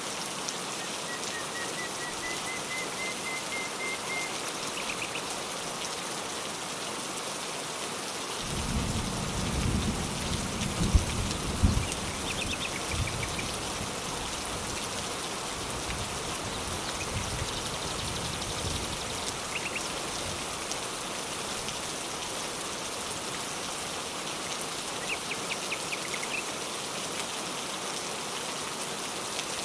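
Steady rain, with a low rumble of thunder starting about eight seconds in and dying away over several seconds. Short bird chirps come through now and then.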